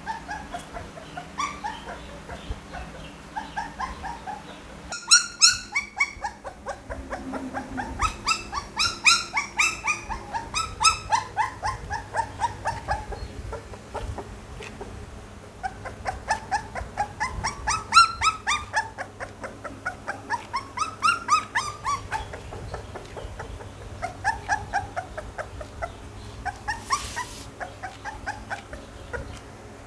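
Pit bull puppies crying: runs of short, high-pitched cries repeated rapidly, with brief pauses between the runs.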